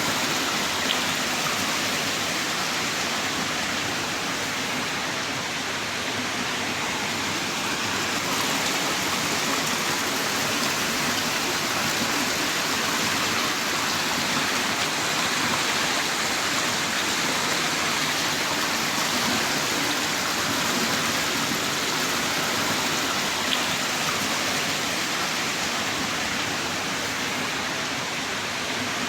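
Heavy rain downpour falling steadily, a dense even hiss with no let-up.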